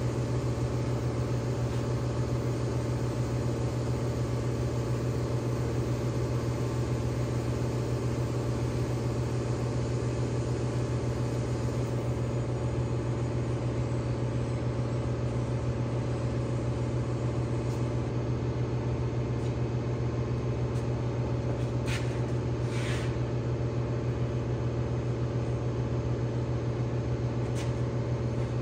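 A steady, low machine hum that does not change, with a few faint short hisses near the end.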